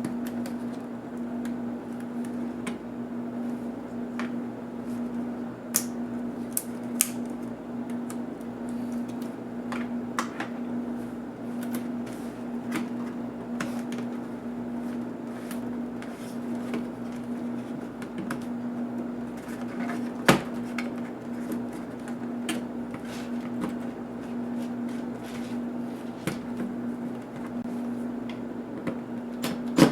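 Scattered small clicks and taps from the plastic and metal parts of a netbook being handled and pried apart by hand, with one sharper knock about two-thirds of the way through. A steady low hum runs underneath.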